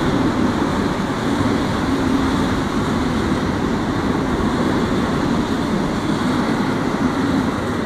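Freight train of loaded double-deck car-carrier wagons rolling past close by: a loud, steady rumble of wheels on the rails.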